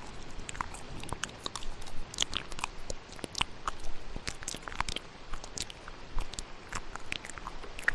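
Layered ASMR mouth sounds: many quick, irregular wet clicks and smacks, several a second, over a steady hiss of thunderstorm rain.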